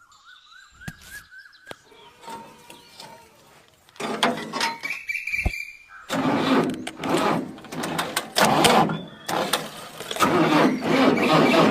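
A handmade mini tractor's small motor: a whine repeatedly rising in pitch for the first second and a half, then a few clicks, then louder irregular grinding and rattling with many sharp knocks over the second half.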